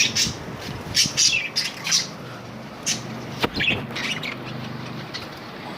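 A flock of budgerigars chattering, with many short, high chirps and squawks overlapping irregularly.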